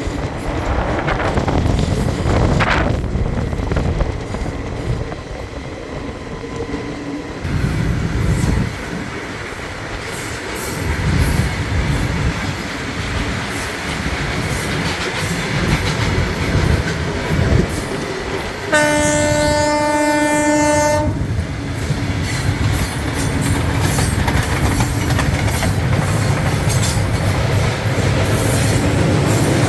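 Passenger train running on the rails with a steady rumble and clickety-clack of the wheels. A little past halfway a train horn sounds once, a single steady blast of about two seconds.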